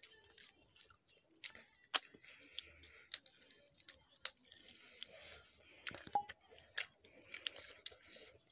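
Close-up eating sounds: a person chewing mouthfuls of rice and smoked chicken fry, with wet mouth noises and scattered sharp smacks and clicks.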